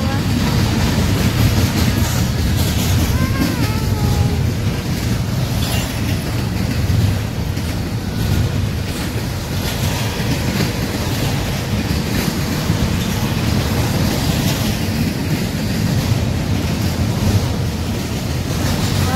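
Double-stack intermodal container freight train passing: a steady, unbroken rumble of its steel wheels on the rails as the well cars go by.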